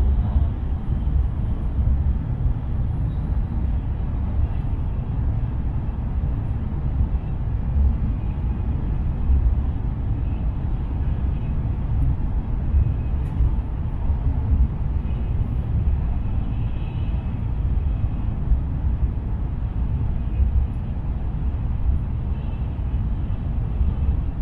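Shinkansen bullet train running at speed, heard from inside the passenger cabin: a steady low rumble.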